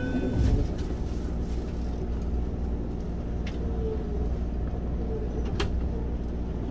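Cabin sound of a Keikyu 1500-series field-chopper electric train car: a steady low rumble, with a thud about half a second in and two sharp clicks later on.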